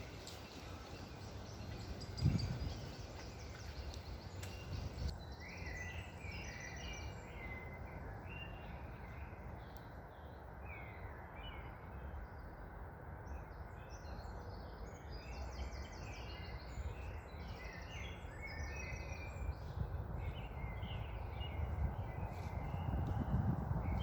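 Several birds chirping and singing in a dense chorus of short calls, starting about five seconds in, over a steady wind rumble that swells near the end. A single thump about two seconds in.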